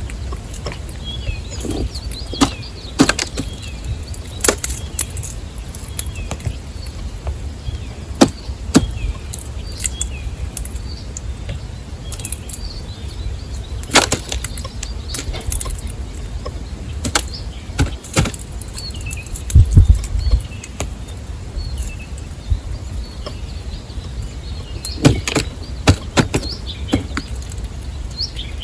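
Small birds at a wooden feeder: irregular sharp taps and knocks of pecking and landing, with short chirps scattered throughout. A steady low rumble runs underneath.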